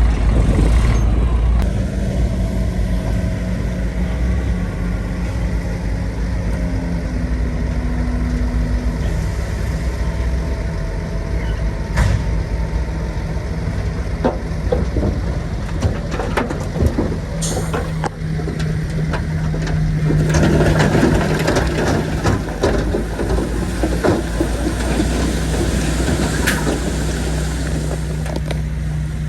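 Heavy diesel earthmoving machinery running steadily, with scattered sharp metallic clanks and a louder, rougher stretch about twenty seconds in.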